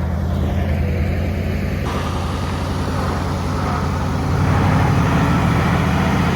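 Large forklift's engine running steadily as it lifts and carries a tractor, growing a little louder about four seconds in.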